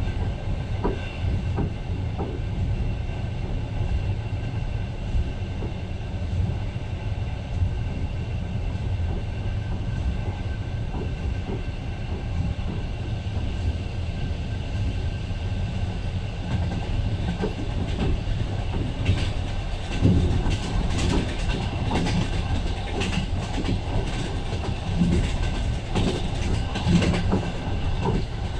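Passenger train running along the track, heard from inside the carriage: a steady low rumble of wheels on rails. Clicks and knocks of the wheels over rail joints grow more frequent and louder in the last third.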